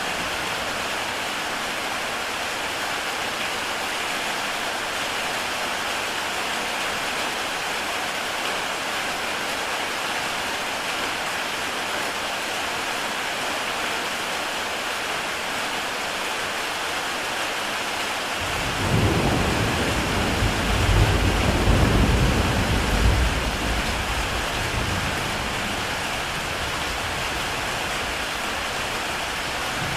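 Heavy rain falling steadily on a tile roof. About two-thirds of the way through, a low rumble of thunder comes in suddenly, swells for several seconds and dies away.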